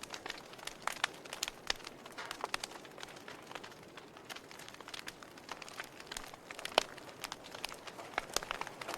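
Campfire crackling: burning wood popping and snapping in irregular, sharp clicks over a low steady hiss, with one louder pop about two-thirds of the way through.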